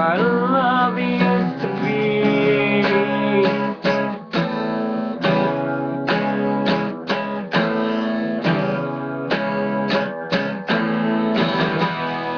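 Guitar strumming chords in an instrumental passage of a song, each stroke followed by the chord ringing.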